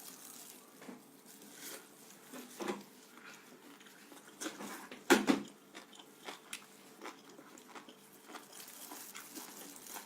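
A person biting and chewing food close to the microphone: scattered wet mouth clicks and smacks, with the sharpest bite about five seconds in.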